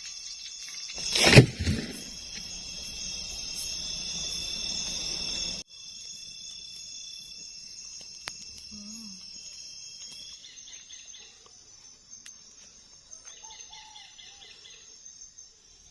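Tropical forest ambience: insects keep up a steady high-pitched buzzing and trilling that changes abruptly twice as the sound cuts, with a brief loud hit about a second in and bird chirps near the end.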